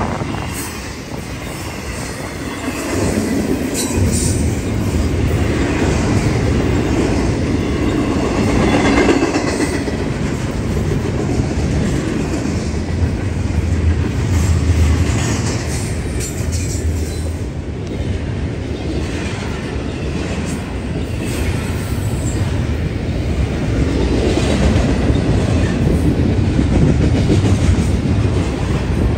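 Train passing close by for the whole stretch: a continuous heavy rumble of steel wheels on the rails, with scattered clicks as the wheels cross the rail joints.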